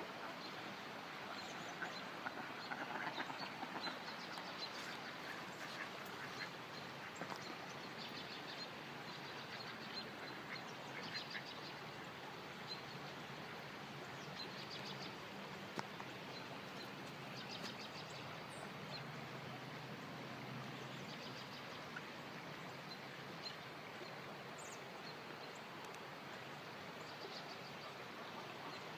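Ducks quacking now and then over the steady rush of creek water.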